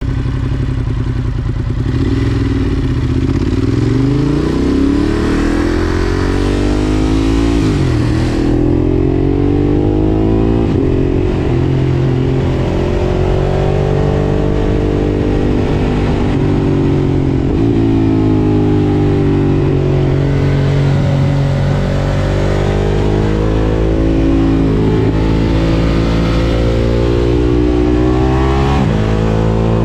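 Ducati Monster 1200 S's 1198 cc L-twin running through an Akrapovič exhaust while riding. The engine note climbs under acceleration again and again, with sudden drops at upshifts and slower falls as the throttle eases off.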